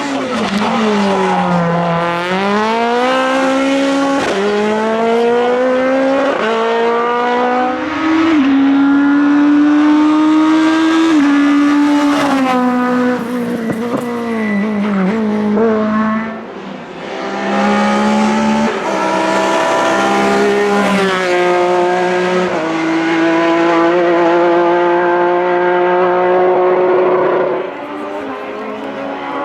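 Naturally aspirated Group F2000 rally car engines at full throttle. The engine note climbs sharply through the revs and drops at each upshift, over and over. There is a brief break about halfway through, and the sound is quieter near the end.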